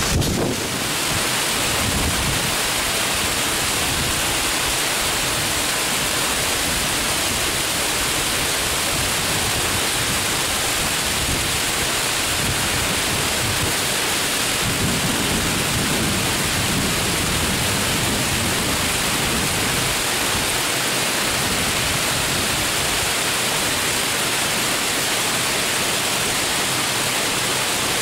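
Torrential rain pouring down in a steady hiss, with a low rumble swelling for a few seconds about halfway through.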